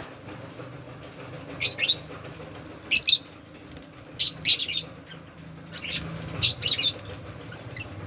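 Pet parrots giving short, high, sharp chirps, singly and in quick pairs, about every one to two seconds, over a faint steady low hum.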